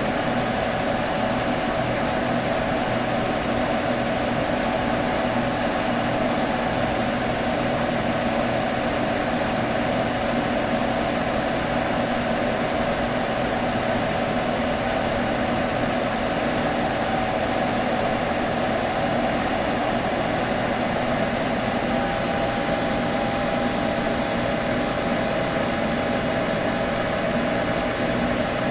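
Computer humming steadily: fan whir and motor hum with a steady midrange drone, unchanging throughout.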